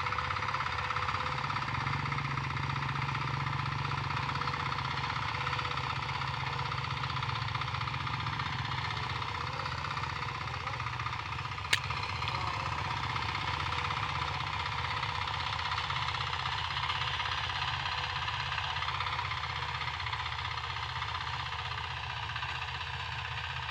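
Hand tractor's engine running steadily, with one sharp click about halfway through.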